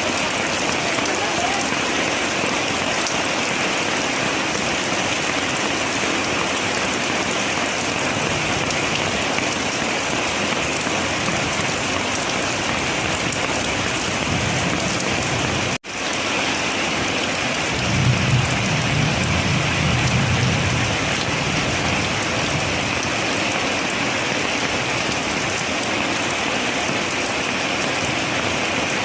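Steady heavy rain pouring onto a surface, with a low rumble a few seconds past the middle. The sound cuts out for an instant about halfway through.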